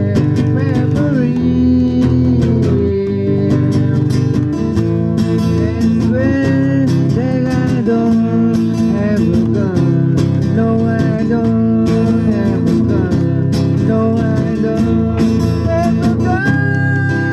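Live blues band playing: guitar lines that bend and slide in pitch, over a steady bass and drums with cymbal hits.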